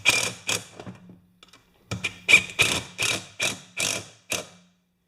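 Repeated rhythmic strokes of a hand tool working metal, about three a second, in two runs with a pause of about a second and a half between them.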